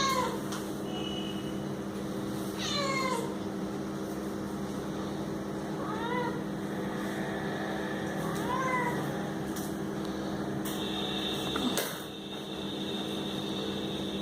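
Domestic cat meowing several times, short arching calls a few seconds apart, over a steady low hum.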